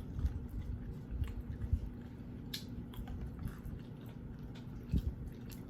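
A person chewing and biting food close to the microphone, with irregular mouth clicks and small wet crunches. A dull low thump comes about five seconds in.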